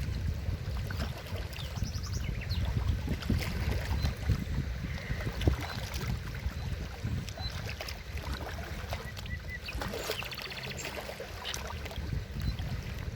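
Forest river water rushing and splashing, with a deep uneven rumble and scattered small splashes, plus a few brief high-pitched peeps now and then.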